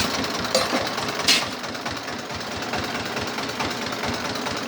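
Small single-cylinder diesel engine running a corn sheller, chugging in an even rapid knock with mechanical rattle and clatter over it, and one sharp crack a little over a second in.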